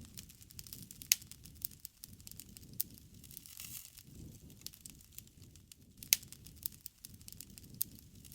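Campfire crackling: irregular sharp pops and snaps of burning wood over a soft low rustle of the flames, with the loudest pops about a second in and about six seconds in.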